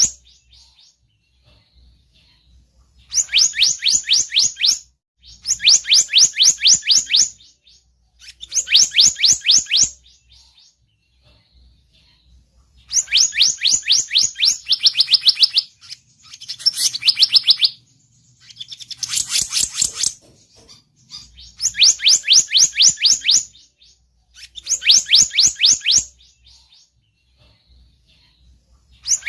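Selendang biru bird song played as a lure call: rapid high trills, each about two seconds long, repeated every few seconds. A few lower and buzzier trills come near the middle.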